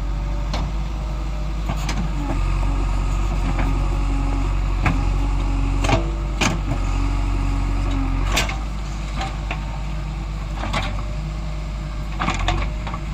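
Heavy diesel engine running steadily, with scattered sharp clanks and knocks and a faint whine that comes and goes twice.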